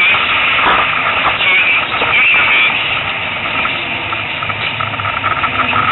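Competition car's engine and drivetrain running under way, heard from inside the cockpit, with a high whine that wavers in pitch and a steady hum beneath it.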